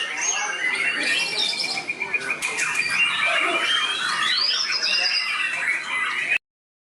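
White-rumped shamas (murai batu) singing over one another in a dense mix of whistles, rapid trills and chattering phrases. The song cuts off suddenly just over six seconds in.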